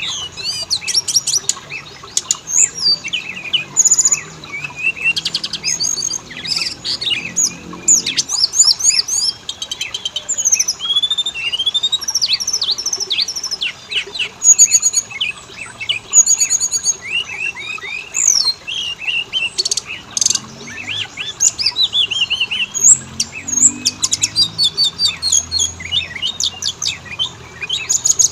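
Oriental magpie-robin singing without a break: a fast, varied run of clear whistles, slurred rising and falling notes and rapid trills.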